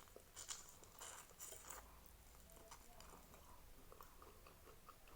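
Faint close-up chewing and crunching of fried chicken, with small crisp mouth clicks that come mostly in the first two seconds and then fade to quiet chewing.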